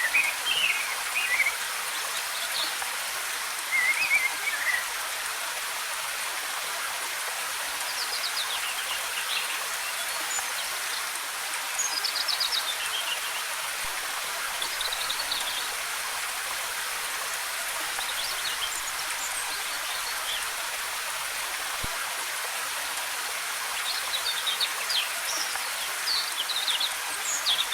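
Steady hiss of falling water, with little low rumble. Songbirds chirp and twitter in short, high phrases scattered throughout.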